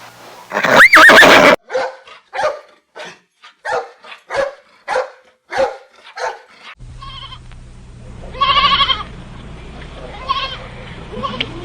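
Farm animal calls from separate clips. A loud call with pitch glides comes first, then a run of about ten short, evenly spaced calls. From about seven seconds in, a goat bleats three times with a quavering tone over a steady low hum.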